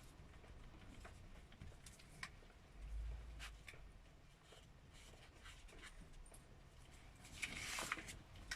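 A biro colouring in on paper, heard as faint, irregular small scratches and ticks, with a louder rub of the paper near the end.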